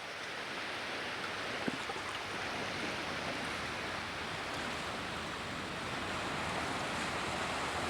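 Steady rush of ocean surf washing onto a beach.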